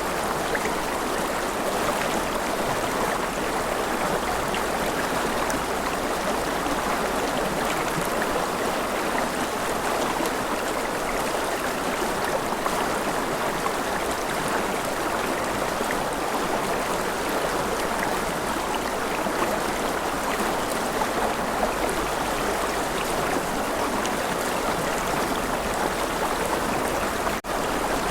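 River water flowing, a steady, even rush of moving water, with a momentary break in the sound near the end.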